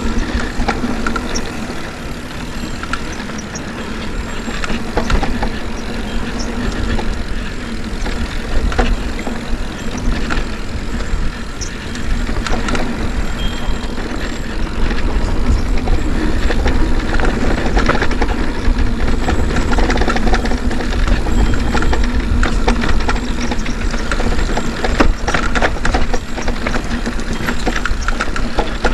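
Mountain bike being ridden on a dirt trail: steady wind rumble on the camera microphone with frequent clicks and knocks from the bike rattling over rough ground, a little louder in the second half.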